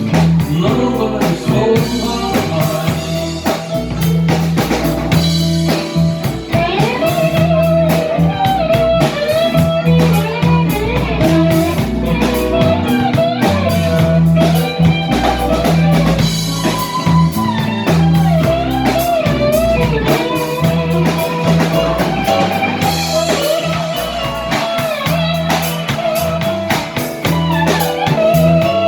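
Live rock band playing an instrumental passage: a lead electric guitar line with bent, wavering notes over bass guitar and a drum kit.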